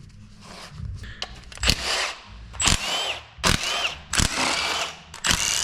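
Handheld power tool run in several short bursts while taking parts off a diesel engine, with a thin squeak in some of the bursts.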